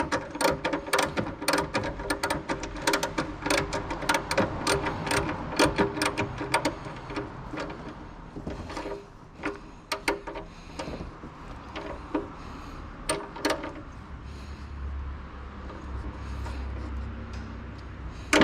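Socket ratchet wrench clicking in quick strokes, thinning out after about seven seconds to a few scattered clicks, with a low rumble near the end.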